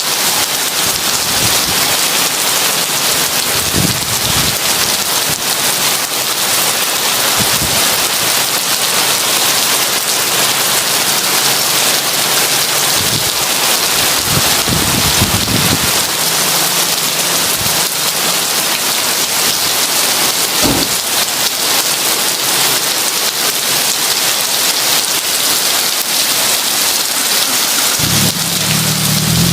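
Heavy rain pouring steadily, with brief low rumbles of distant thunder now and then and a longer low rumble building near the end.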